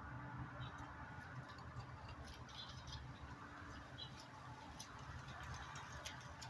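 Faint, short high chirps from small birds, scattered about once a second, with a few light clicks, over a low steady rumble.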